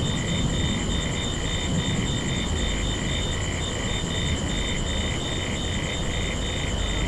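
Ambient field recording of insects chirping in an even rhythm, about three chirps a second, with a steady high trill over a low rumble.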